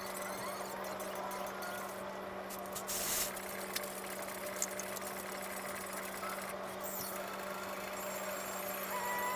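A steady low hum, with a short rush of noise about three seconds in and a few light clicks.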